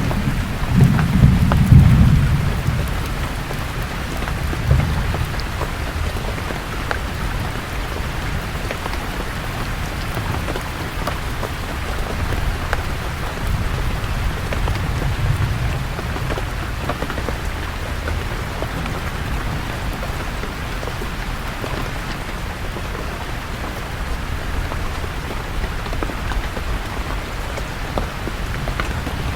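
Steady rain falling on leaves, with individual drops ticking. A loud rumble of thunder comes in the first few seconds, and fainter rumbles follow later.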